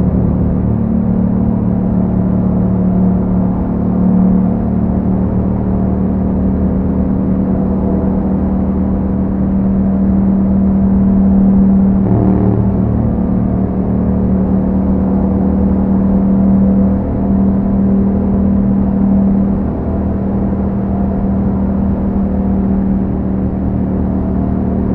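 2021 Yamaha MT-07's 689 cc parallel-twin engine running through an Akrapovic exhaust under way, holding a fairly steady engine speed. There is a brief change in the note about twelve seconds in.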